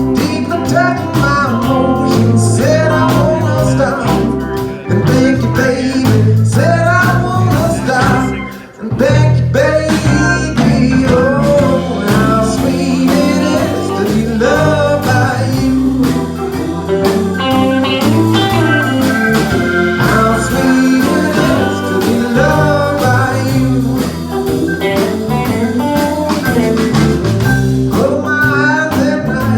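A band playing a blues-tinged song, with a singer over guitar. The music dips briefly about nine seconds in.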